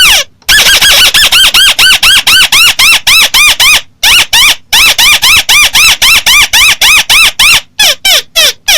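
Volume-boosted recording of the call of the bird known in Vietnamese as chim mắt xéo: loud, squeaky notes, each rising then falling in pitch, repeated about five times a second in two long runs, then a few spaced notes near the end.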